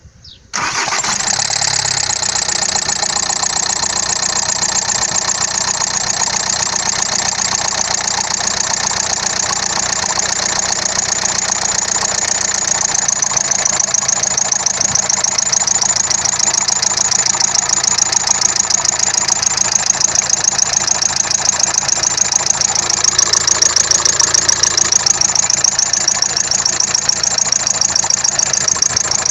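Engine idling with a loud high-pitched whistle over it, pulsing quickly and growing a little louder about halfway through. The whistle appeared after the engine was reassembled and its cause is unknown.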